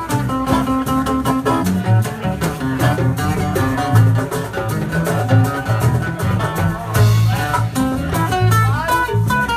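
Live band playing an instrumental passage: a melodic lead line with sliding, bending notes over bass and a steady beat.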